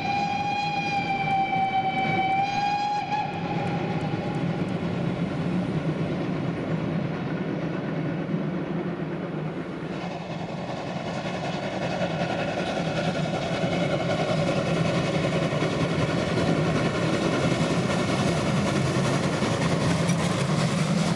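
Steam whistle of DR class 95 tank locomotive 95 027: one held note of about three seconds, dipping slightly near its end. Then the steady working noise of the locomotive and its train going by, growing louder after about twelve seconds.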